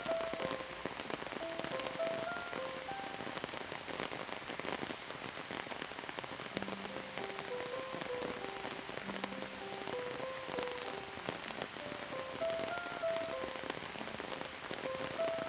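Steady rain with dense, fine drops pattering on a surface. A soft, slow melody of short notes plays underneath, with two longer low notes in the middle.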